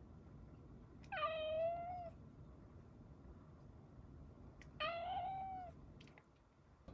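Domestic cat meowing twice, each call about a second long and held at a fairly steady pitch, with a pause of about three seconds between them.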